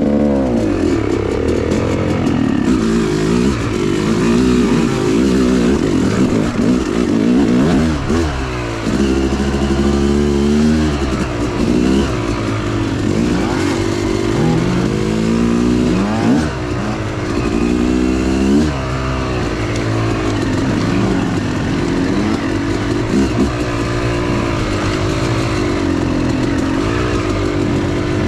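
Dirt bike engine being ridden on a trail, its pitch repeatedly climbing as it revs and dropping off between throttle blips and shifts.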